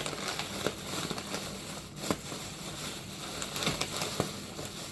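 Plastic packaging and bags crinkling and rustling as groceries are handled, with scattered small clicks and knocks.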